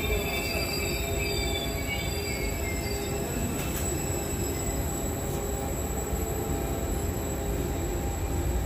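Trenitalia Vivalto double-deck passenger coaches rolling along a station platform, their steel wheels squealing high on the rails over a steady low rumble.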